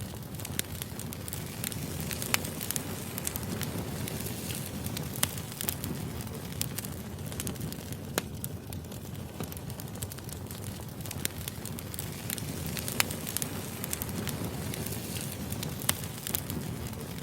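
Firewood burning: a steady low rumble of flames with sharp, irregular crackles and pops scattered throughout.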